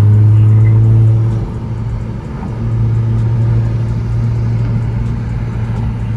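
Car engine and exhaust droning steadily at cruise, heard from inside the cabin; the drone eases off for about a second just after the start, then settles back in.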